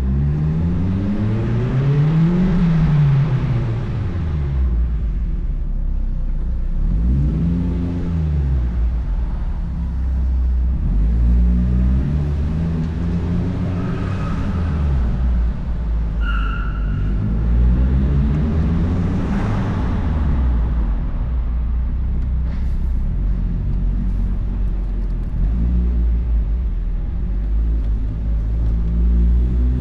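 2004 Mazdaspeed Miata's turbocharged four-cylinder with an aftermarket cat-back exhaust, pulling up through the revs and dropping back again and again as it accelerates and shifts. A couple of short high tones sound about halfway through.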